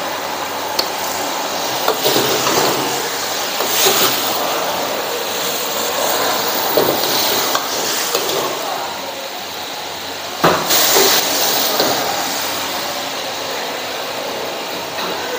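Food frying and sizzling in a hot pan, with a metal spatula stirring and scraping and now and then knocking against it; a louder clank about ten and a half seconds in.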